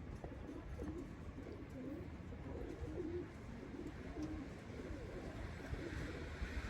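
Domestic pigeons cooing: a run of short, low, wavering coos repeating one after another.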